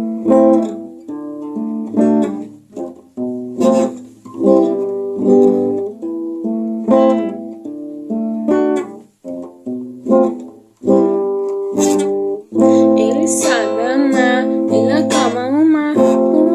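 Acoustic guitar playing a song intro: picked chord phrases separated by short pauses, moving into a steadier sustained passage about two-thirds of the way in. A voice hums or vocalizes without words over it near the end.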